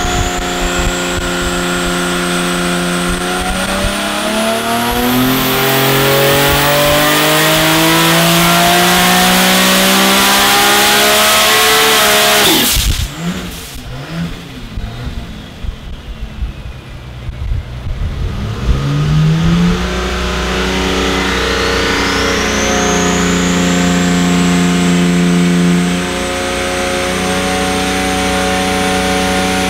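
Turbocharged Nissan RB30 three-litre straight-six running on an engine dyno: a full-throttle pull in which the exhaust note and a high turbo whine rise together for about ten seconds, then cut off suddenly as the throttle closes and the engine falls back. After a few quiet seconds it comes back under load at a held speed, the note steady while the turbo whine climbs again as boost builds.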